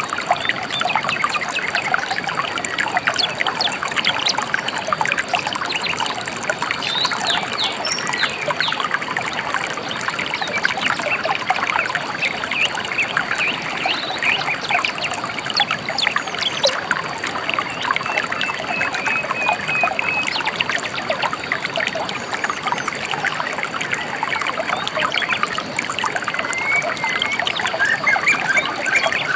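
A gentle river flowing and trickling steadily, with a few birds chirping briefly, most noticeably about two-thirds of the way through and near the end.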